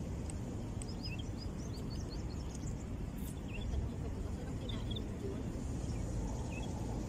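Birds chirping in the trees: many short, high chirps scattered throughout, over a steady low background rumble.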